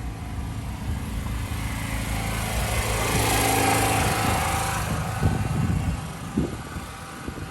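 A motor vehicle passing by: its engine and tyre noise grow louder to a peak about three and a half seconds in, then fade away. A few short knocks follow near the end.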